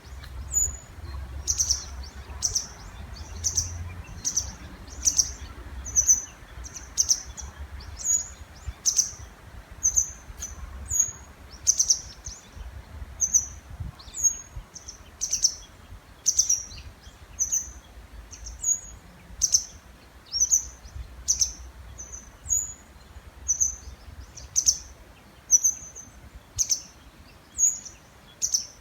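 Small birds calling over and over in the breeding season, short high chirps about twice a second, over a faint steady rush of river water.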